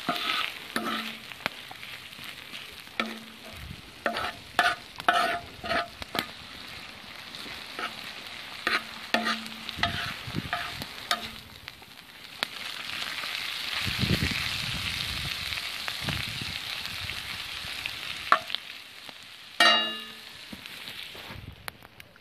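Fried potatoes, onions and canned stewed pork sizzling on a steel harrow-disc pan over a wood fire. A metal spoon scrapes and clatters on the pan as the food is stirred through the first half. Then the sizzle swells into a steady hiss while steam comes off, with two more scrapes before it fades near the end.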